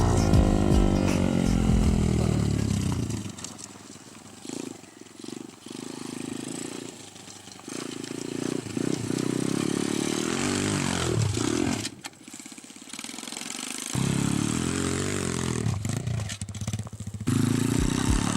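Motorcycle engine running while the bike is ridden. Its pitch falls as it slows at the start, then it goes quieter with changing revs, and it picks up strongly again near the end.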